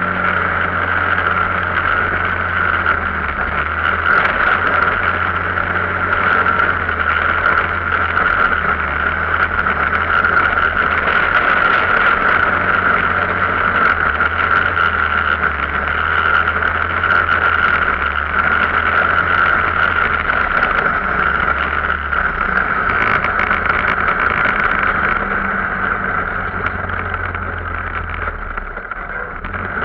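Arctic Cat off-road vehicle's engine running steadily under way, with a constant high drone over the low engine note and some dropping off near the end.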